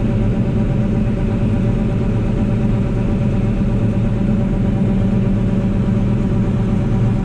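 John Deere 9760 combine running steadily, a constant engine and machinery drone with no change in pitch or load.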